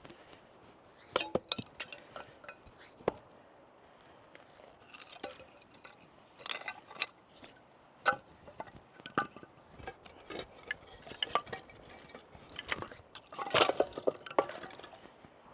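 Cooking gear and utensils being handled: irregular clinks and knocks, with a busier cluster near the end.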